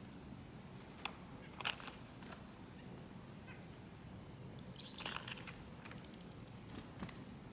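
Small songbirds at a backyard feeder calling: a few sharp chips and short high notes, with a quick run of notes about five seconds in, over a faint low background rumble.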